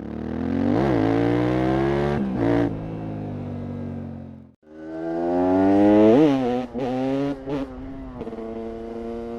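Vehicle engine at high revs, its pitch easing down and jumping up in quick rev blips, in two clips cut together with a sudden break in the middle.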